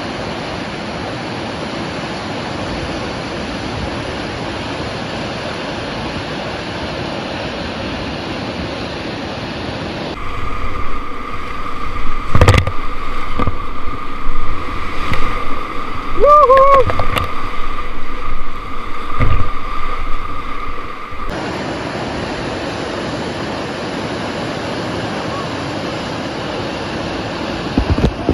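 Steady rush of flowing river water, broken for about ten seconds in the middle by a quieter stretch with a steady high hum, several sharp knocks and one short wavering call.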